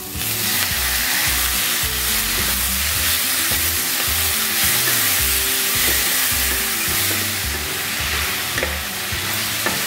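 Chopped tomatoes hitting hot oil and onions in a frying pan: a steady sizzle that starts suddenly as they go in and keeps up while the pan is stirred.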